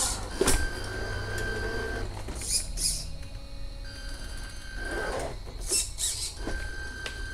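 1/14 scale RC Scania R470 truck driving, its small electric drive whining in a thin steady tone that stops and starts again. Short hissing bursts come three times in between.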